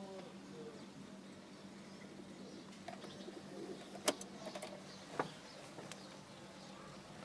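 Chevrolet Aveo's electric fuel pump humming steadily with the ignition on: the pump is now working, after it had failed to run. Sharp clicks come about four seconds in and again about five seconds in.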